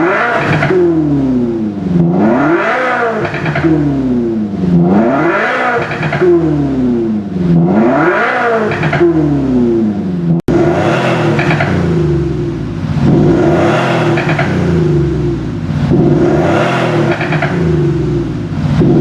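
Kia Sorento UM 2.2 diesel with an active exhaust sound system playing a synthetic engine note while the engine is revved: for the first half the note rises and falls about every two seconds. About halfway through it cuts to a different sound mode, a steady-pitched drone that swells in loudness about every second and a half.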